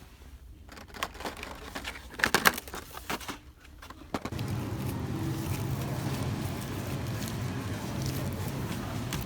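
A few sharp clicks and knocks, loudest about two seconds in, then from about four seconds in the steady low rumble of a running vehicle.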